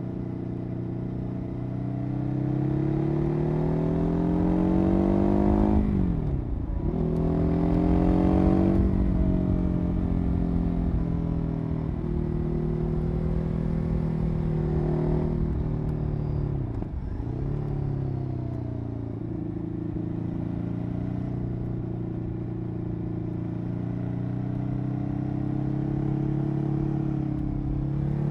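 Ducati 821 Testastretta L-twin engine running through a RAW exhaust, its pitch climbing slowly and dipping sharply twice, about six and seventeen seconds in, each dip picking straight back up.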